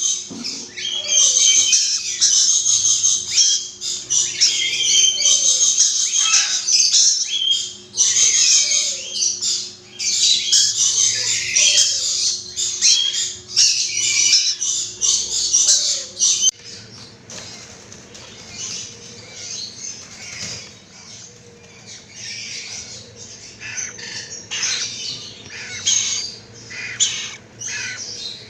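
Rainbow lorikeets squawking and screeching in dense, harsh calls. They are loud for about the first half, then quieter and more scattered after an abrupt change.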